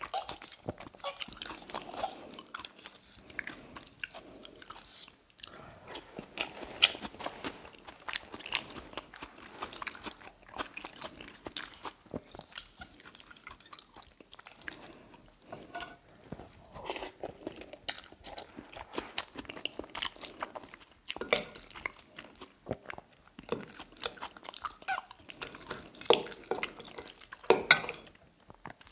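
Close-miked eating of tagliatelle in salmon cream sauce: chewing with many irregular mouth clicks and smacks.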